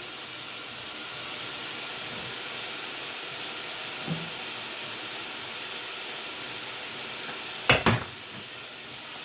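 Onion, garlic and bell peppers sautéing with smoked sausage in the chili pot, giving a steady sizzling hiss. A faint knock comes about four seconds in, and a quick run of sharp knocks against the pot comes near the end.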